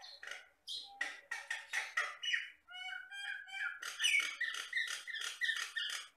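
Jalak Batam myna singing: a fast, varied run of whistles, quick trilled notes and harsh chattering notes that stops abruptly near the end.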